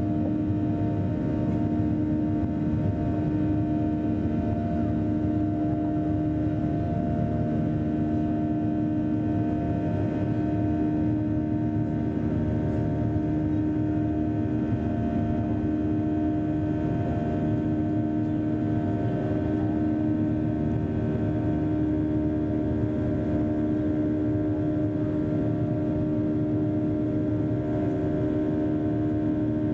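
Steady cabin drone of a Boeing 737-300's CFM56 turbofan engines heard from inside the passenger cabin: a low rumble with several steady humming tones, unchanging throughout.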